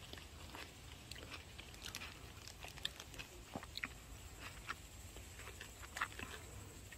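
Cherry tomatoes being bitten and chewed: faint, irregular crunching and small clicks.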